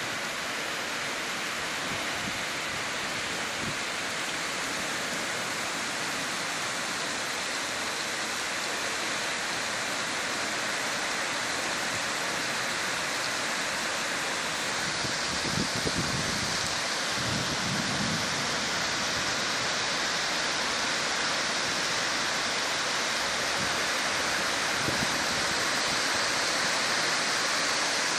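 Heavy rain pouring down steadily in a storm, a dense even hiss that grows a little louder about halfway through. A couple of brief low thumps come past the middle.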